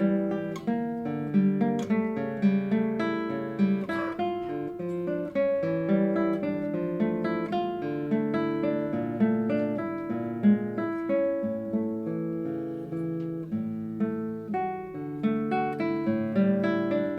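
Classical guitar played solo: a steady flow of fingerpicked notes over held bass notes.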